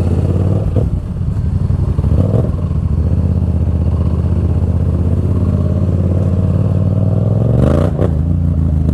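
Yamaha FZ-07's parallel-twin engine and exhaust under way, a deep, throaty note held steady at cruising revs, then rising as the throttle opens near the end.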